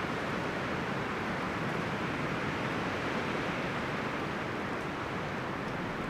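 Wind rustling through the leaves and branches of forest trees, a steady, even rush.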